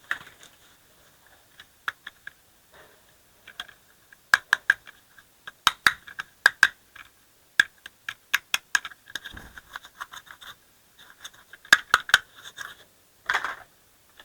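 Irregular light clicks and clatter of hard plastic toy parts being handled, some in quick runs of three or four.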